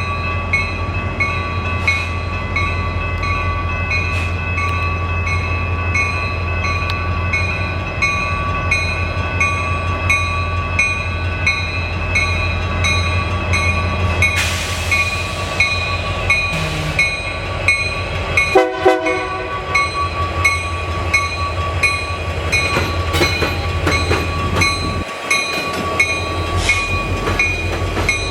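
A train passes with a steady low rumble. Throughout, a ringing repeats a little under twice a second, and a short, multi-tone horn blast sounds about 19 seconds in.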